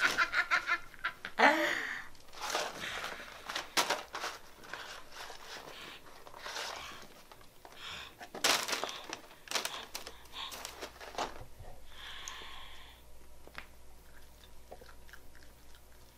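Someone eating french fries by the handful: chewing and munching, mixed with many short crackles and clatters of cardboard fry boxes and paper bags. There is a short vocal sound about one and a half seconds in, and the clicks grow sparser towards the end.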